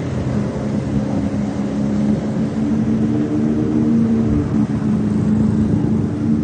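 Motorbike engine running on the move, with a steady rush of road and wind noise; the engine note grows stronger about three seconds in.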